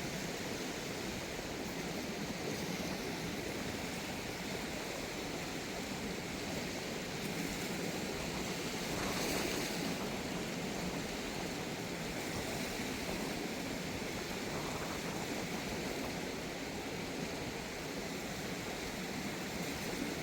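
Steady rushing of a fast-flowing river in flood, swelling slightly about halfway through.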